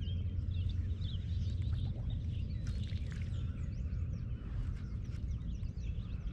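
Several birds chirping and calling, short rising and falling notes, over a steady low rumble.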